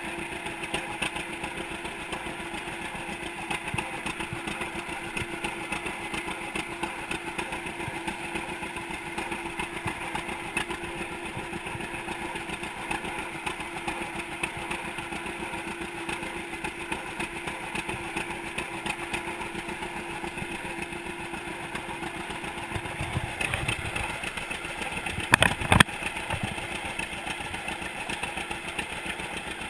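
1942 John Deere unstyled Model A tractor's two-cylinder engine running steadily after its first start, with a brief cluster of sharp, louder knocks near the end.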